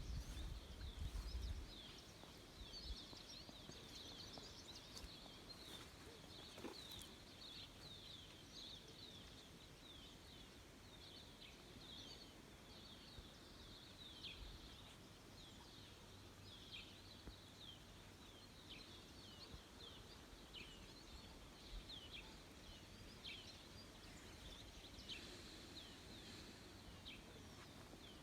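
Faint outdoor ambience full of small birds chirping: many short, high, falling chirps repeating irregularly. A low rumble in the first second or two is the loudest part.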